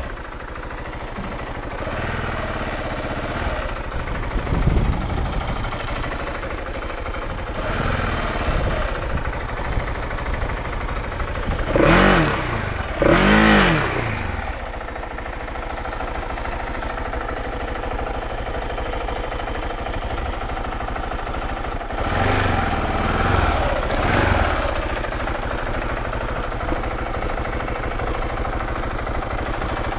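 KTM 690 Enduro R's single-cylinder engine running at low revs, with two sharp blips of the throttle a little before halfway and two milder revs later on.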